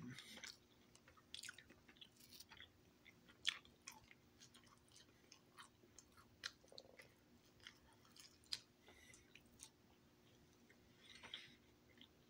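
A person chewing pizza close to the microphone: quiet, irregular mouth clicks and smacks.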